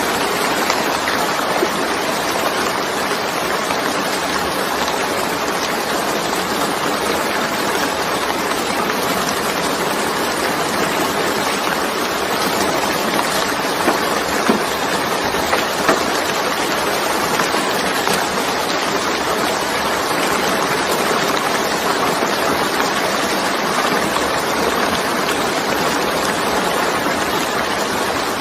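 Heavy rain falling steadily, a dense even hiss, with a few louder single drop hits about halfway through.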